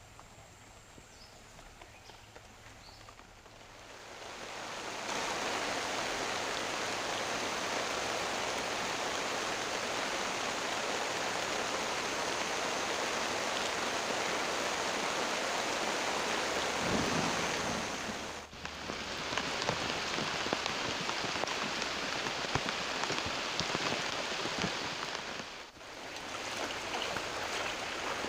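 Steady rushing water noise that swells in about four seconds in after a quiet start, with two brief dropouts in the second half.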